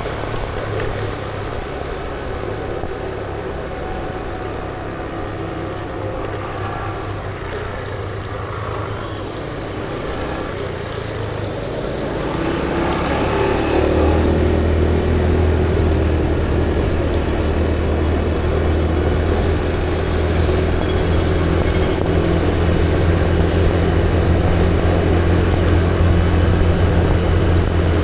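Engine and road noise of a moving vehicle, a steady low hum that grows louder about halfway through as a rising tone shows the vehicle speeding up.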